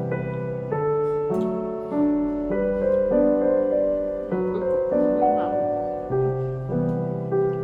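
Background piano music: slow, gently sustained chords changing about every half second to second.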